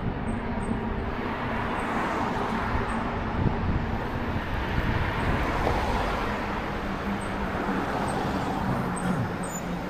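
Steady street traffic noise heard while riding an e-bike, with a faint low engine hum coming and going.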